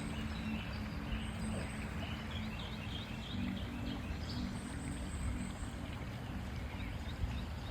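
Outdoor nature ambience: birds chirping over a steady rushing noise, with a faint low hum underneath.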